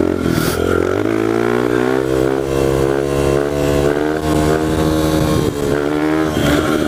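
1998 Honda XR100 pit bike's single-cylinder four-stroke engine, with an aftermarket FMF exhaust, pulling hard in third gear for a wheelie. The revs climb over the first second, then hold fairly steady, with a brief dip near the end.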